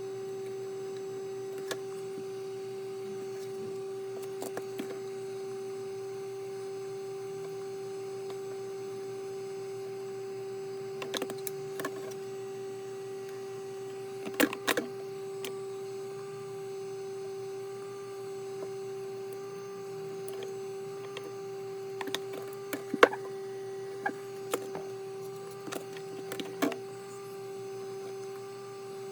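Steady electrical hum at one constant pitch, with scattered small clicks and knocks of handling; the sharpest knock comes about 23 seconds in.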